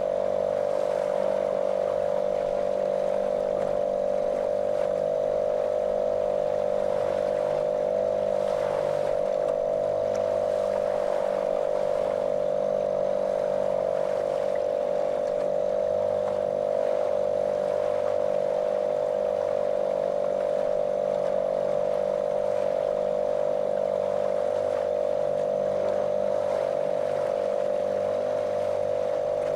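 A small motorboat's motor running at a steady speed, a monotonous, unchanging drone.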